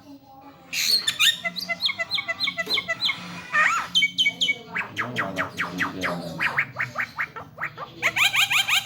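Young Javan myna singing: rapid strings of short whistled chirps and squawky notes with a few sweeping glides, starting about a second in and turning into a dense, fast run near the end.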